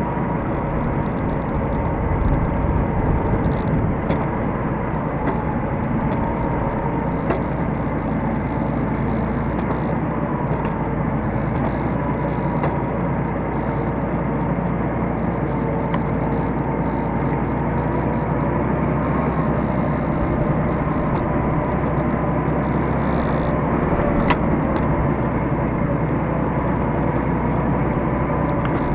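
T-150K tractor's diesel engine running steadily under work.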